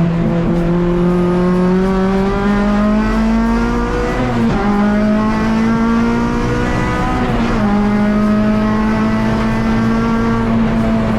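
Honda K24 four-cylinder engine of a Civic EG race car pulling hard under load, its pitch climbing steadily with two upshifts, about four and a half and seven and a half seconds in, where the pitch drops and climbs again.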